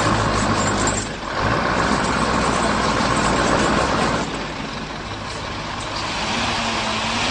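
Heavy truck engines running steadily, with a steady high whine over them that stops about four seconds in.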